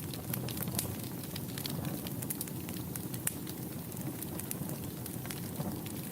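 Wood fire burning in a fireplace: a low steady rumble of flames with frequent irregular crackles and pops from the burning logs.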